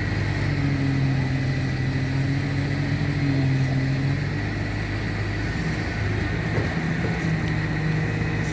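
Tractor engine running steadily, its note shifting slightly higher about halfway through.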